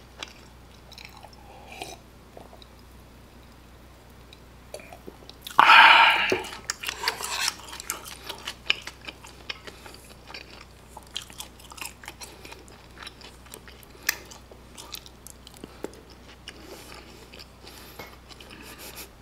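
Close-miked chewing and small wet mouth clicks of a person eating kimpitang, fried sweet-and-sour pork under kimchi sauce and melted cheese. About six seconds in there is one short, loud breathy sound.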